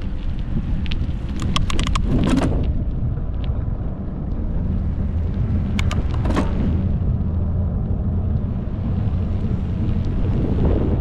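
Steady low wind rumble on the microphone, with two short bursts of sharp clicks and rattles about two seconds and six seconds in.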